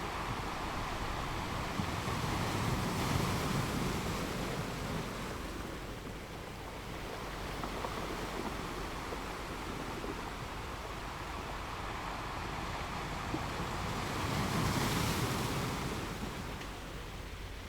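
Ocean surf: a steady rush of waves, swelling twice as waves break, a couple of seconds in and again near the end.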